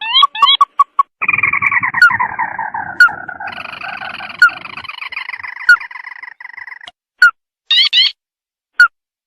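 Recorded calls of the sintar mata merah (lantung) played as a trapping lure: short pitched call notes in quick series, a stretch of dense continuous calling in the middle that drops slightly in pitch, then scattered single notes and short trilled bursts near the end.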